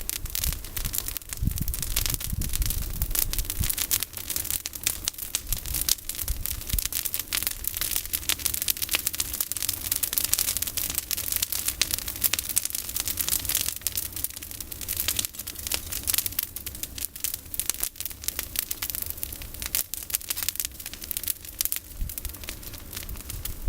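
Campfire of pruned olive branches burning, with dense, irregular crackling and popping throughout over a low rumble.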